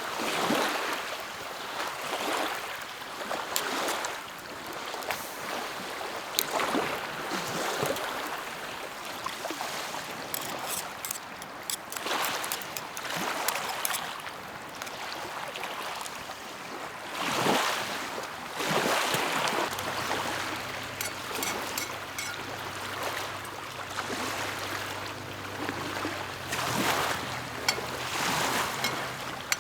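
Small lake waves lapping against the shore, each wash rising and falling every second or two, with bursts of small crackling clicks. About two-thirds of the way through, a low steady hum comes in underneath.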